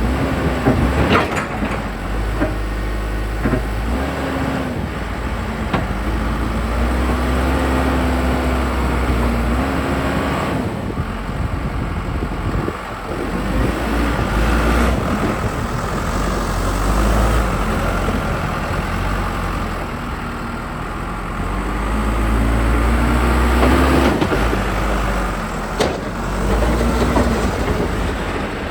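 1998 Case 580 Super L Series II backhoe's diesel engine running under hydraulic load as its hoe and loader are worked, the engine note dipping and rising again and again. A couple of sharp knocks, one about a second in and one near the end.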